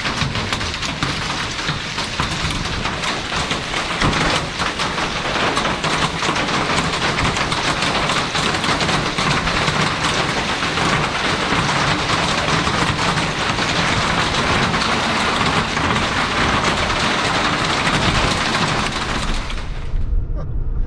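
Heavy hail and rain pelting down, a dense hiss packed with sharp cracks and bangs as hailstones strike metal picnic-cover roofs. It stops abruptly about a second before the end.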